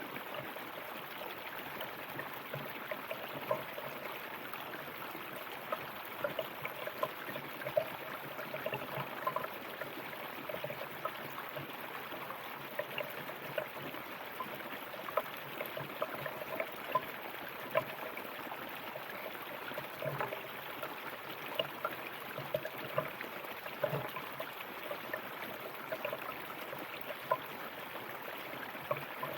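River water running over stones: a steady rush with frequent small gurgles and plinks.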